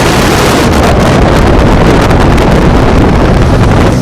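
Loud, steady wind buffeting the microphone on a moving motorboat, mixed with the rush of the boat through the water.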